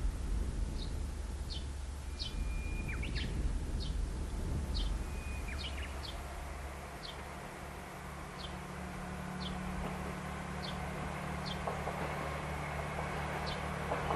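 Outdoor birdsong: one bird gives short falling chirps every half-second or so, and a second bird twice gives a held whistle that ends in a quick drop. From about halfway, the low, steady hum of an approaching KiHa 120 diesel railcar grows slowly beneath them.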